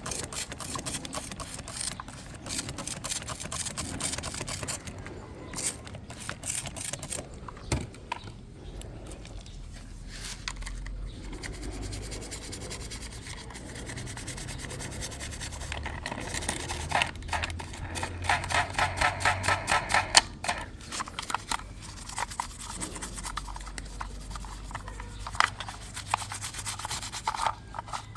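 Rubbing and scrubbing strokes on a small toy police car during restoration. The strokes come irregularly, then in a faster, regular run of quick back-and-forth strokes about two-thirds of the way through.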